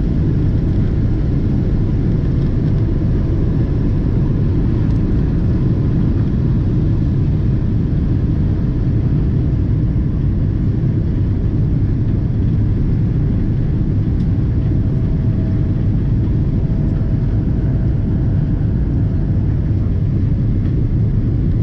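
Steady, loud cabin noise inside a Boeing 777-200ER: a deep rumble and drone of its Rolls-Royce Trent engines and airflow, heard from a window seat, with no rise or fall in level.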